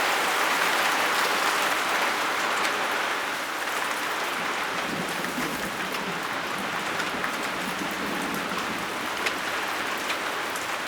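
Steady rain falling in a thunderstorm, with scattered sharp drop hits; it eases slightly about three and a half seconds in.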